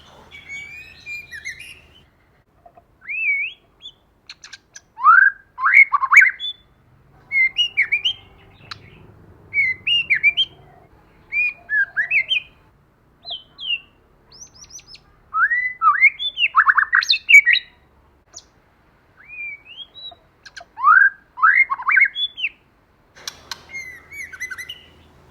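White-rumped shama singing: short whistled phrases of sliding notes, some ending in loud runs of quick rising notes, repeated every second or two with short pauses between.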